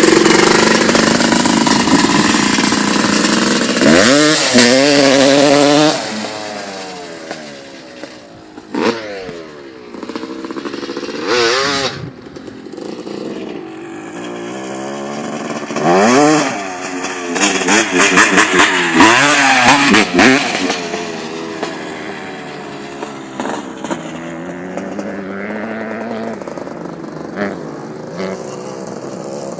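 Dirt bike engine revving and riding, its pitch rising and falling with the throttle. It is loud for the first six seconds, fades as the bike pulls away, then comes back loud with rapid rising and falling revs between about sixteen and twenty-one seconds in.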